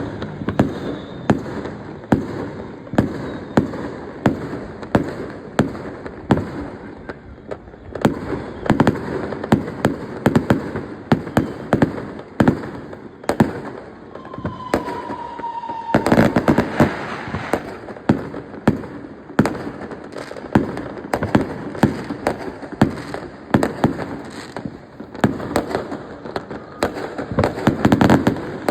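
Fireworks going off in rapid succession: many sharp bangs and crackles, one after another. About halfway through there is a short falling whistle, and dense flurries of bangs come just after it and near the end.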